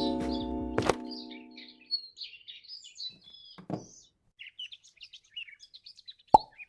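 A sustained musical chord rings out and fades away over the first two seconds. Then small birds chirp in quick, scattered calls, and a single sharp knock sounds near the end.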